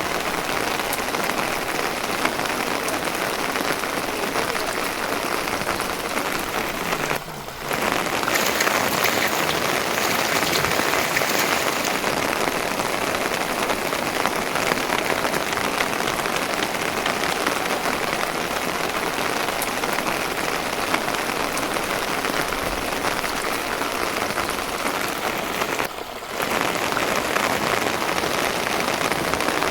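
Steady rain falling, a dense even patter, with two brief dips about seven seconds in and near the end.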